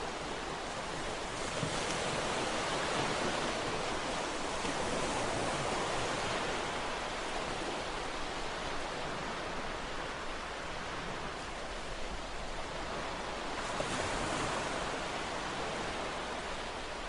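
Ocean waves washing onto a shore, a continuous rush of surf that swells and eases slowly, with broader surges at about two seconds and again near the end.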